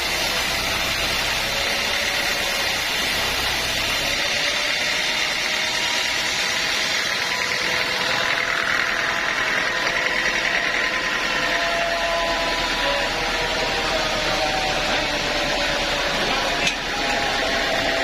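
Sawmill machinery running steadily, a dense mechanical noise with a wavering whine. A single sharp click sounds near the end.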